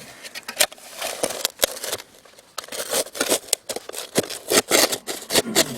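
Shovel blade digging into packed stone and gravel in a foundation hole: a run of crunching, scraping strokes, denser and louder in the second half.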